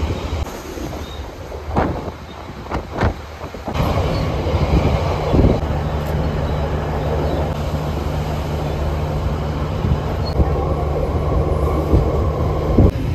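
Passenger train running, heard from an open-air viewing carriage with wind buffeting the microphone: a steady rumble of wheels and running gear, a few sharp clicks about two to three seconds in, growing louder from about four seconds. A faint steady wheel squeal joins near the end.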